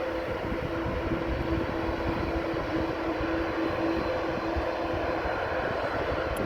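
Jet airliner engines running: a steady rumble with a constant hum over it.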